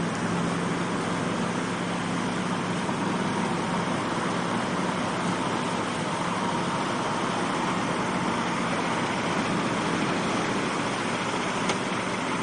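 A truck's engine running steadily, with one sharp click near the end.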